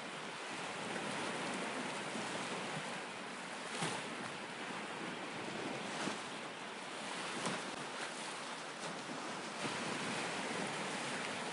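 Steady, even rushing noise with a few faint knocks scattered through it, about four, six, seven and a half and nine and a half seconds in.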